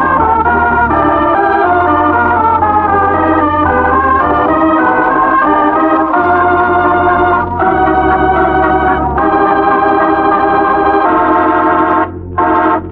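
Organ music: a sustained chord passage with the chords changing every second or so, and brief breaks near the end.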